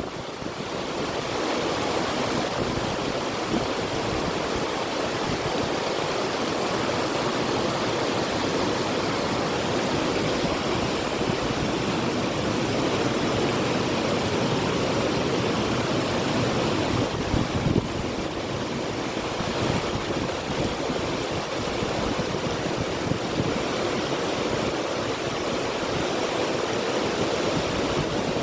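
River water rushing steadily, with wind, and a brief louder gust about two-thirds of the way through.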